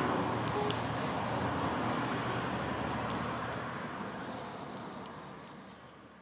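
Outdoor ambience: a steady rushing noise with a constant high-pitched insect-like tone and a few scattered sharp clicks, fading out over the last couple of seconds.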